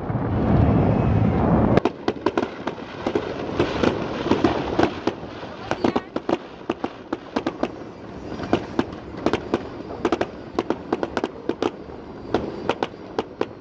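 Fireworks: a loud low rumble from shell bursts at first, then after about two seconds a dense run of sharp, irregular pops and crackles, several a second.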